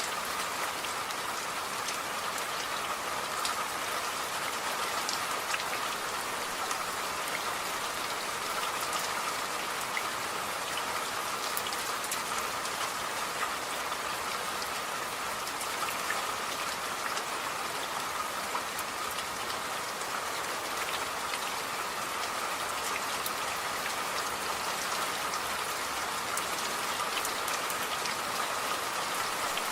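Steady rainfall, many fine drops pattering on a surface as an even hiss with scattered small ticks.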